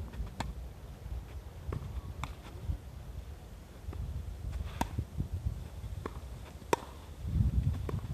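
Tennis balls struck by racket in a volley-to-groundstroke rally, a sharp hit every couple of seconds, over strong wind buffeting the microphone that swells near the end.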